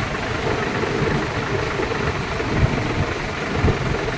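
Tractor engines running at idle, a steady low mechanical rumble.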